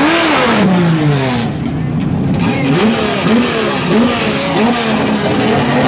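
Drag-racing car engine revving: one long drop in pitch, then a run of quick throttle blips, about two a second, each rising and falling.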